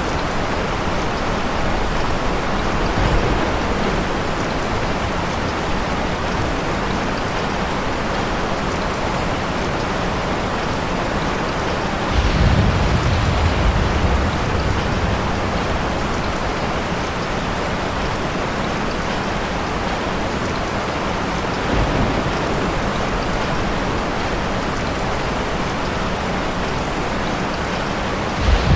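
Steady heavy rain falling, with a low rumble of thunder about twelve seconds in that lasts a couple of seconds, and shorter rumbles later on and near the end.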